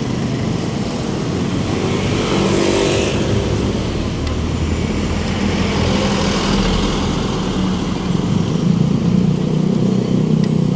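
City road traffic: engines of passing cars and motorcycles running over a steady hiss of tyres and wind.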